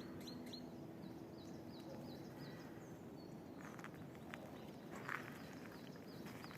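A small songbird repeating short, high chirps, about three a second, in two runs with a pause between them. A brief soft rustle comes about five seconds in.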